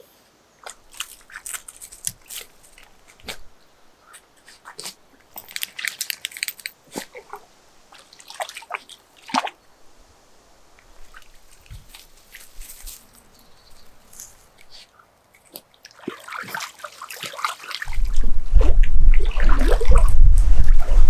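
A dog snapping and biting at water, with scattered wet snaps and small splashes. Near the end it turns into loud, continuous splashing with a heavy low rumble.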